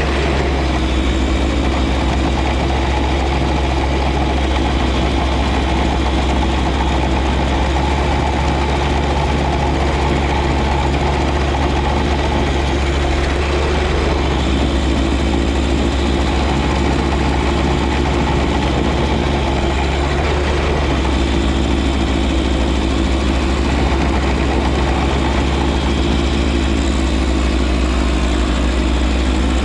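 John Deere 1025R compact tractor's three-cylinder diesel engine running steadily at an even pitch.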